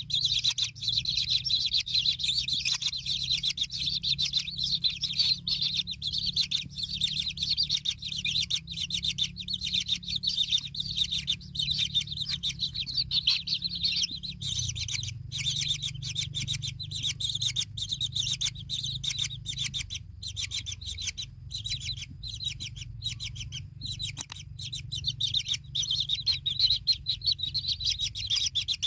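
Birds chirping in a dense, unbroken stream of high, rapid calls, over a steady low hum.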